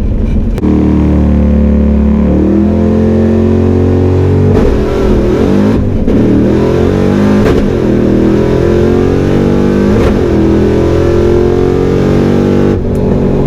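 Fox-body Mustang 5.0 V8 with open-dumped exhaust making a hard drag-strip launch and pulling through the gears. The engine comes in suddenly about half a second in and climbs in pitch, with drops at the shifts.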